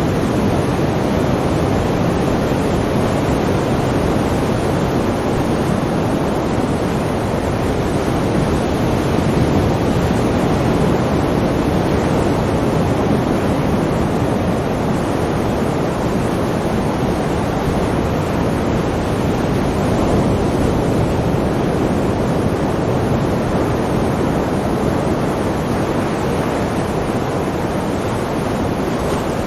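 Sea surf: a continuous, steady wash of breaking waves, with only slight swells in loudness.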